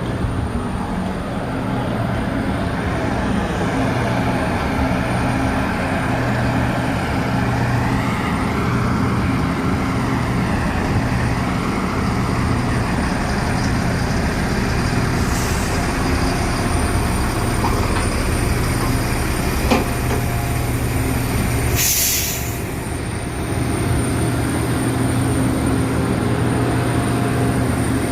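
Steady hum and air rush inside a Boeing 737-800 cabin on the ground before departure: the ventilation air and the aircraft's running systems. A short loud hiss of air comes about three quarters of the way through.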